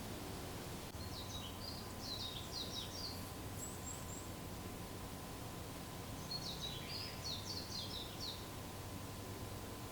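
A small songbird singing two short phrases of quick, high notes a few seconds apart, over faint steady background noise.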